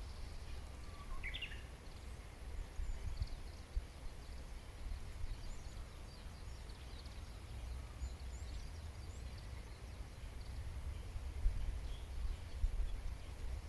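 Wild birds calling: scattered faint short chirps, with one clearer call about a second in, over a steady low rumble.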